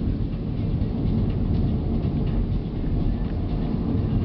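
Steady low rumble of a vehicle driving fast on the open road: engine and road noise with no change in pace.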